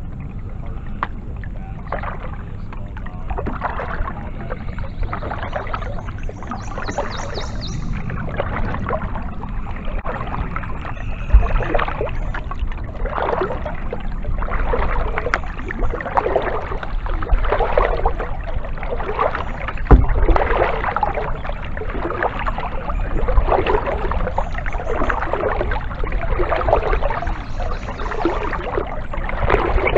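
Kayak paddle strokes splashing and dripping in the water at a steady rhythm, about one stroke every second and a half, over a low rumble. Two sharp thumps stand out, one about eleven seconds in and one near the twenty-second mark.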